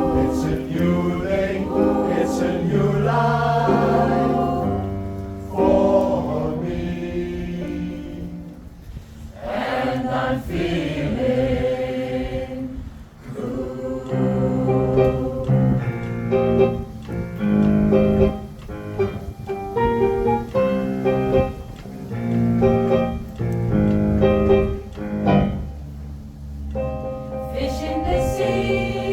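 Pop choir singing in close harmony, with held chords that change every second or two.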